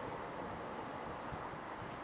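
Steady low rumbling noise from a passenger train with a sleeping car alongside at close range, mixed with wind on the microphone.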